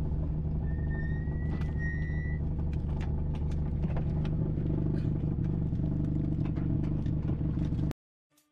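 Rally car engine running steadily, heard inside the cabin, with light clicks and rattles. A thin high tone sounds for about a second and a half near the start, and the sound cuts off suddenly near the end.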